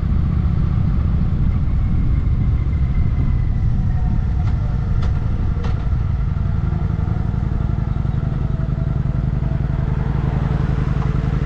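Wind rushing over the microphone of a moving rider, a dense low rumble with faint road and drivetrain tones above it.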